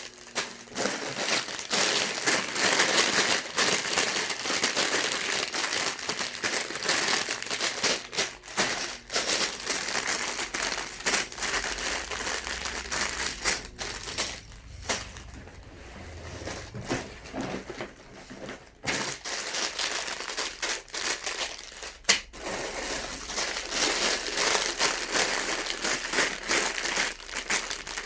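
Plastic bags of Lego pieces crinkling as they are handled, with a quieter spell about halfway through and a single sharp click about three-quarters of the way in.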